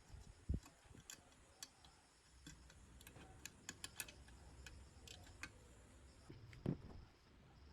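Faint scattered light clicks and ticks of hard small objects being handled, with two dull low knocks, one about half a second in and one near the end.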